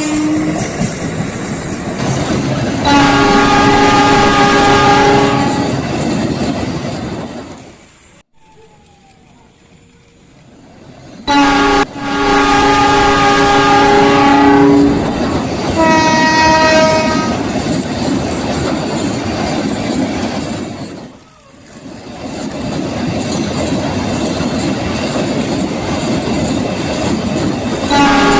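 Train horn giving long blasts several times, one of them shorter and higher, over the steady rumble and clatter of a moving train. The sound drops away sharply for a few seconds about a third of the way in, and again briefly later.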